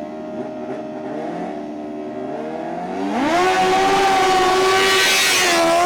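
Superbike engines revving: the pitch holds steady, climbs sharply about three seconds in, then stays held at high revs and is at its loudest.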